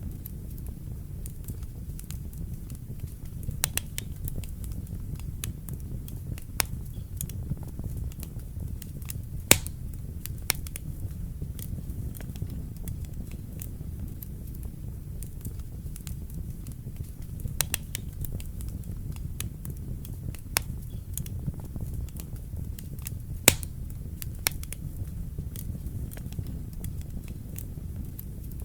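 Wood fire burning in a fireplace: a steady low rumble of flame with sharp, irregular crackles and pops, two of them louder than the rest.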